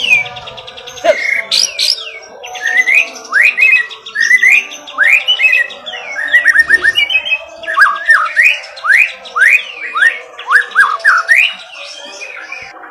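White-rumped shama (murai batu) singing a loud, varied song of quick rising whistles mixed with rapid trills and rattles. Fainter steady tones sit underneath.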